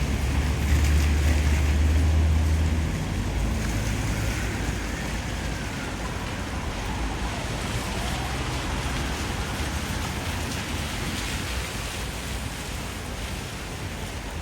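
A low vehicle engine rumble for about the first three seconds over a steady rushing noise of storm wind and traffic, with a faint pitch that falls and rises again midway.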